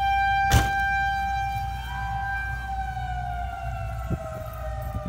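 Outdoor civil-defence tornado siren sounding a monthly test: a steady wail that starts to fall slowly in pitch in the second half, as if winding down. A single sharp knock comes about half a second in.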